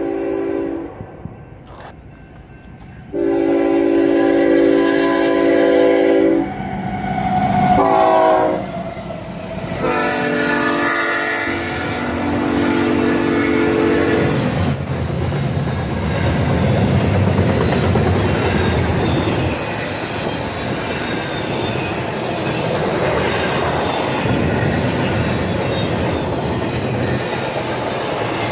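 A Union Pacific GE C45AH locomotive's multi-chime air horn sounds the grade-crossing signal: long, long, short, long. About halfway through, the horn gives way to a steady rumble and wheel clatter as loaded double-stack intermodal cars roll past.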